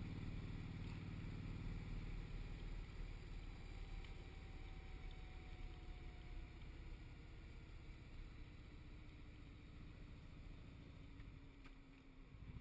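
Motorcycle engine running while riding, with wind noise; the engine's low drone eases off and gets quieter toward the end.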